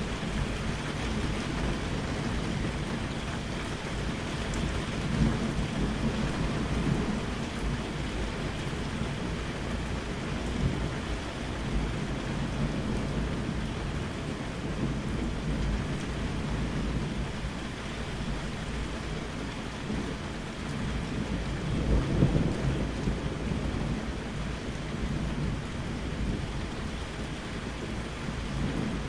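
Steady rain falling with low rolling thunder that swells and fades, louder around five seconds in and again past twenty seconds.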